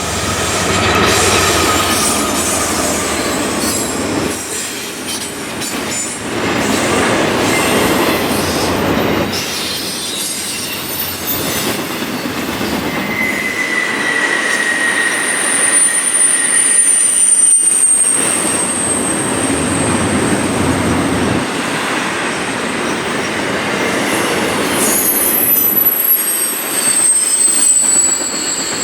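A train rolling past, its wheels clattering over the rails, with thin high-pitched wheel squeals coming in about halfway through and holding on.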